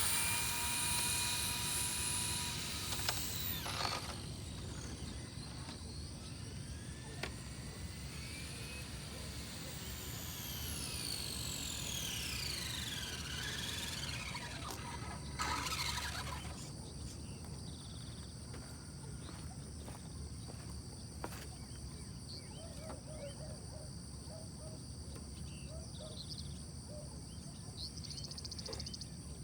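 No-prep RC drag car's electric motor whining at full throttle on a drag pass, the pitch climbing and then cutting off about four seconds in. A second, long falling whine follows around the middle, over a steady high chorus of insects.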